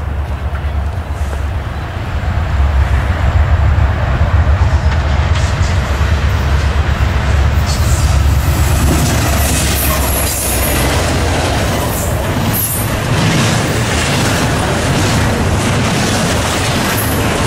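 A Norfolk Southern diesel freight train passes. The locomotive's low engine rumble grows as it approaches, then eases after about eleven seconds, and the double-stack intermodal well cars follow with a steady rattle and clicking of wheels over the rail joints.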